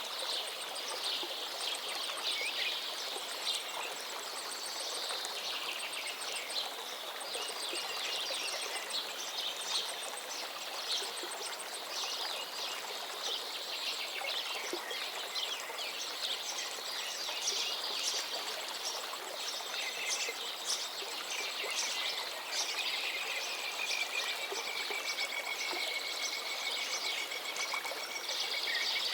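Several birds singing and chirping over the steady rush of flowing river water, with one long, level whistled note late on.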